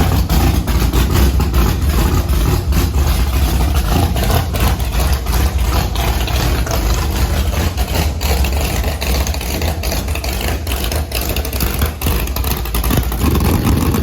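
10.3-litre big-block V8 running loudly just after start-up, a choppy idle full of crackles. About 13 seconds in it settles into a smoother, steadier idle.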